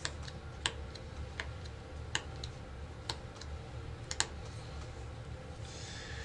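Rook playing cards being laid down on a table: a handful of sharp, scattered taps and snaps, two close together about four seconds in, over a low room hum.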